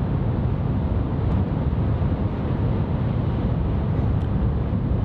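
Steady low rumble and rush of a Shinkansen bullet train running, heard inside the passenger cabin, with a couple of faint clicks.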